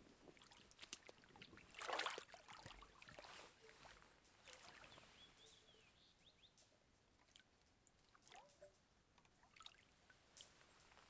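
Near silence, with faint scattered ticks and a brief rustle about two seconds in.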